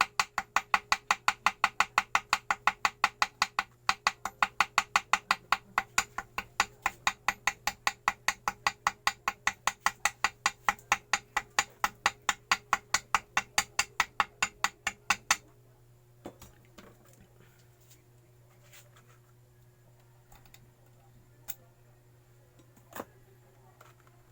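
Small hammer tapping quickly and evenly, about four or five light taps a second, cutting gasket paper against the motorcycle engine's mating surface. The tapping stops about fifteen seconds in, leaving a few scattered clicks.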